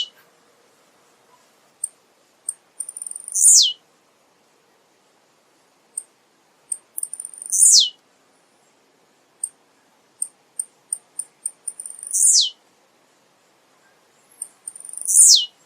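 Male blue-black grassquit (tiziu) singing: each phrase is a few short, high ticks followed by a loud, sharp note that falls steeply in pitch. The phrase comes four times, about every four seconds.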